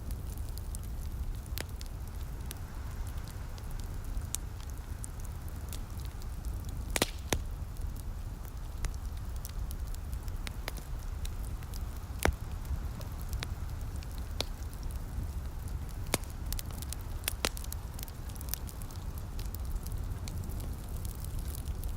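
Wood fire crackling, with sharp irregular pops scattered through, two of them louder about seven and twelve seconds in, over a steady low rumble.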